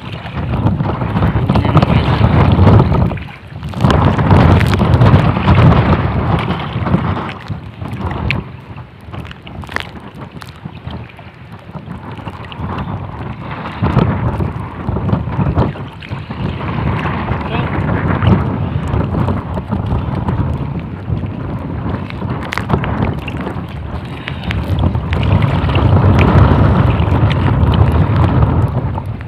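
Strong gusting wind buffeting the microphone, a heavy rumble that rises and falls in gusts, with a brief lull about three seconds in and scattered small knocks.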